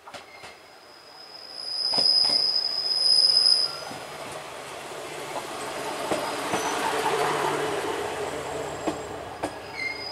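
Ibara Railway IRT355 diesel railcar pulling in. A loud, high, steady squeal comes from its wheels for about two seconds. Then the rumble of the car and its diesel engine swells as it comes alongside.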